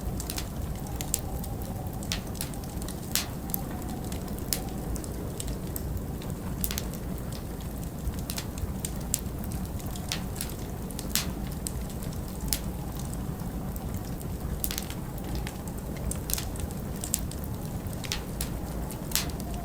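Wood fire crackling in a fireplace, with irregular sharp pops and snaps over a steady low rush, mixed with continuous wind.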